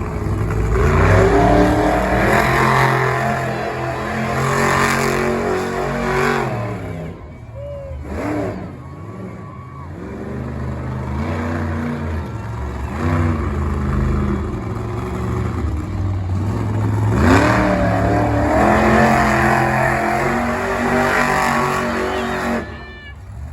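Big truck engine running hard and revving, its pitch rising and falling repeatedly. It eases off for a few seconds partway through, then surges again and cuts back sharply near the end.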